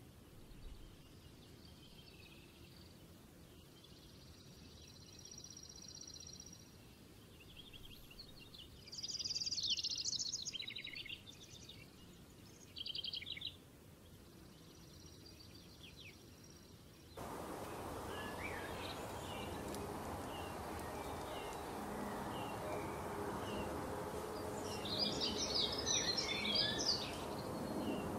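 Wild birds singing, with quick high trills. About 17 seconds in the sound cuts to a noisier recording in which a bird gives a short chirp over and over, and near the end comes a louder burst of song.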